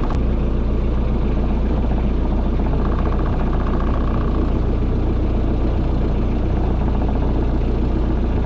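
A small boat's engine running steadily at low speed, a low even hum with a single click about a tenth of a second in.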